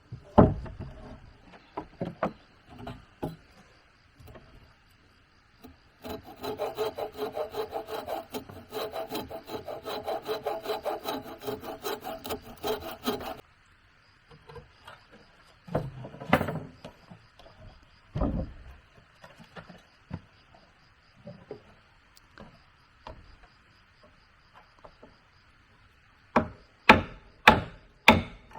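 A hand saw cutting through wood in a quick, even run of strokes for about seven seconds, several strokes a second. Scattered knocks of wood on wood come before and after it, with a few sharper, louder knocks near the end.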